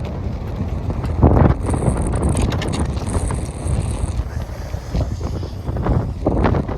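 Strong gusting wind buffeting the microphone on a ski lift ride, with a few mechanical clunks and rattles from the lift, one about a second in and another near the end.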